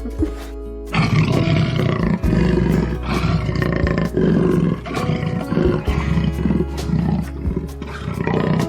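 Big cat roaring, a run of rough, pulsing roars starting about a second in, over steady background music.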